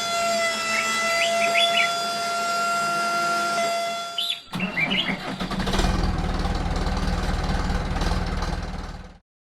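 A small motor whining steadily at one pitch while birds chirp, then, after a cut about halfway through, a low, fast-pulsing engine sound that cuts off suddenly near the end.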